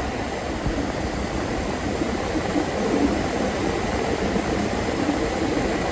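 Hyundai Porter II refrigerated truck running steadily, its engine and refrigeration unit working as the cargo box cools, with a faint high steady whine over the low rumble.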